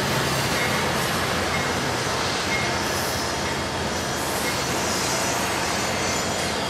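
Diesel-electric freight locomotives, a Union Pacific unit and then a green CEFX unit, passing close by: a steady mix of engine rumble and steel wheels rolling on the rails.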